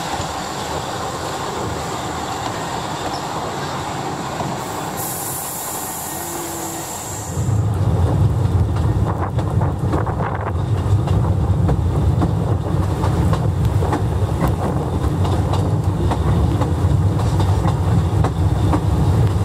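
Narrow-gauge train carriages rolling past a platform, with a high hiss for about two seconds. Then, from about seven seconds in, the louder low rumble and steady clatter of the wheels on the rails, heard from an open carriage window while the train is moving.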